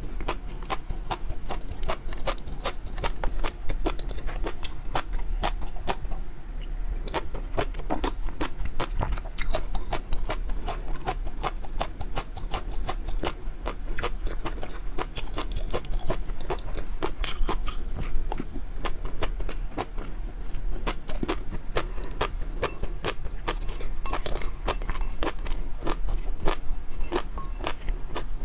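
A person chewing and biting food, with a steady run of many small, sharp mouth clicks throughout.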